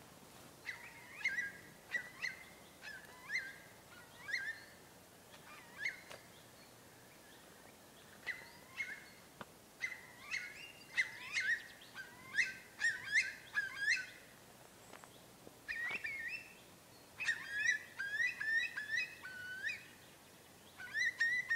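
A curved-billed bird calling repeatedly: clear whistled notes in bursts of several, with pauses between, coming thicker in two spells in the middle and later part.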